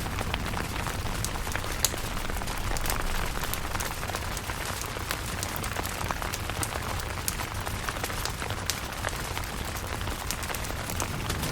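Steady rain on a camping tent, with many sharp drops tapping distinctly against the even patter over a low rumble.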